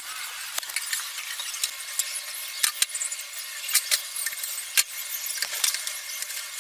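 Irregular sharp clicks and light clinks of tools or hardware being handled, over a steady hiss.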